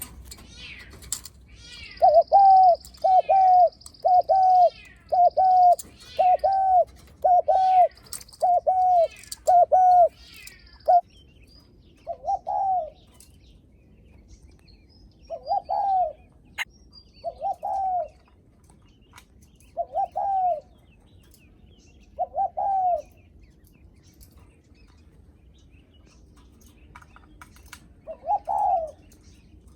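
Spotted dove giving its short greeting coo ('gù'), the call a cu gáy makes when a visiting dove comes near. A quick run of coos comes at about two a second, then slows to single coos a few seconds apart. Small birds chirp faintly, and a thin high tone sounds in the first seconds.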